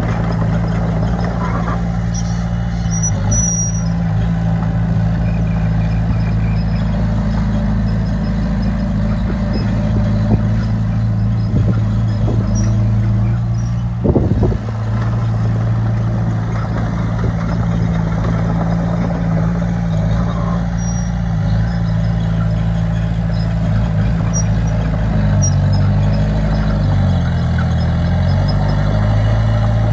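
Heavy diesel engine of earthmoving machinery running steadily under load, with a short knock about halfway through and the engine note dipping and wavering near the end.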